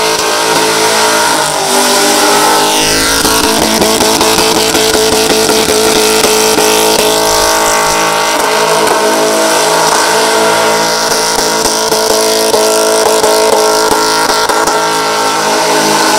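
Holden VX SS Commodore's LS1 V8 held at high revs during a burnout, its rear tyres spinning in smoke. The revs drop and climb back about two to three seconds in, then stay high and steady.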